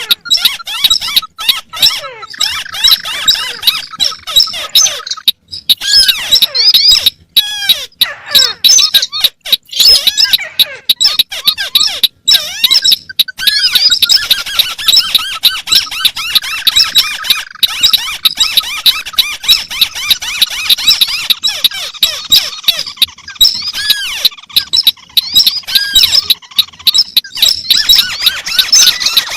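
Overlapping recorded calls of several crakes, among them the white-browed crake: dense, rapid, high squeaky chattering and trills layered out of step with one another. The sound cuts out briefly several times.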